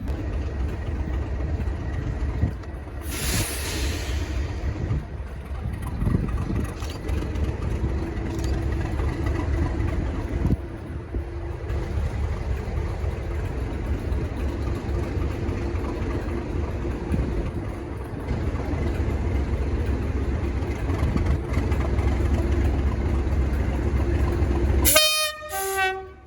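A train rumbles steadily at the station, with a brief hiss about three seconds in. Near the end its two-tone horn sounds, switching from a higher note to a lower one.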